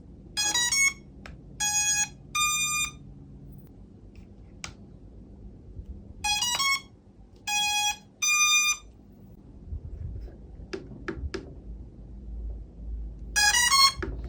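SJRC drone's boot-up tones: a quick rising run of short electronic notes followed by two longer beeps, the second higher than the first. The sequence repeats three times, about every six or seven seconds, with a few faint clicks in between.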